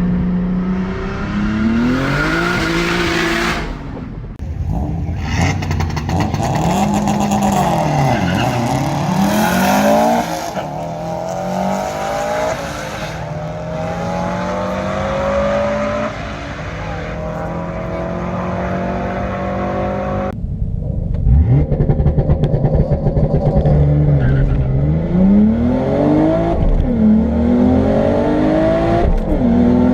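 Lexus IS300's single-turbo 2JZ-GTE inline-six accelerating hard through the gears, its pitch climbing on each pull and dropping at each shift, over several separate runs.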